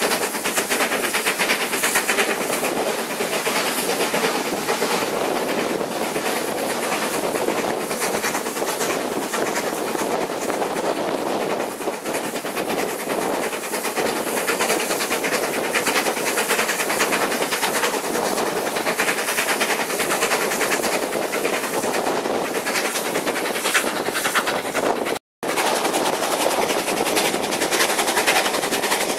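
Steam-hauled passenger train running at speed, heard from an open carriage window: wheels clattering over the rails with air rushing past. The sound drops out for an instant near the end.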